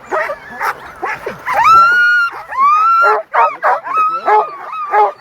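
A team of Alaskan husky sled dogs barking and yipping in a busy chorus, with two longer, high, drawn-out yelps about two and three seconds in: harnessed dogs excited and eager to run before the start of the race.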